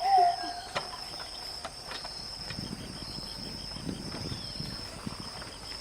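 Insects droning steadily at one high pitch, with a few faint clicks and rustles.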